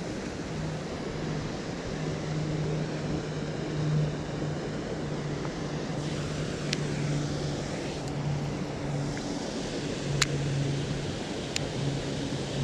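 A steady low motor hum over wind noise, with a few sharp clicks in the second half.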